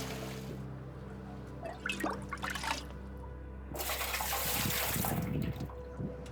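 Water running and splashing, loudest in a rush of about two seconds in the second half, over soft background music.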